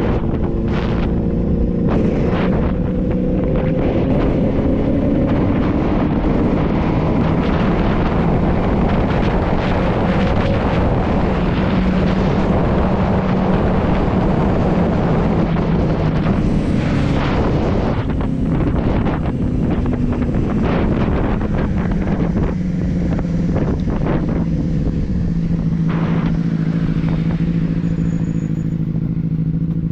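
Benelli 600i's inline-four engine running while riding, with wind rushing over the rider's microphone. The engine note holds steady for stretches and shifts pitch several times as the speed changes.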